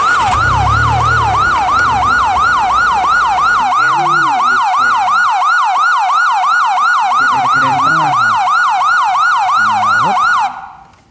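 Electronic emergency siren in a fast yelp, its pitch sweeping up and down about two to three times a second, which cuts off shortly before the end.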